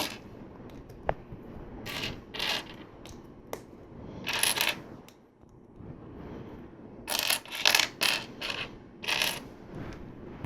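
Plastic LEGO pieces clicking and clattering as they are picked through and handled, in a series of short bursts with small gaps between.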